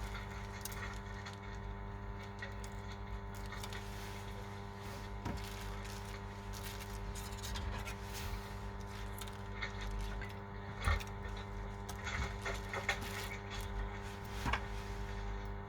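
Steady electrical hum with scattered small clicks and taps, the sharpest about eleven seconds in.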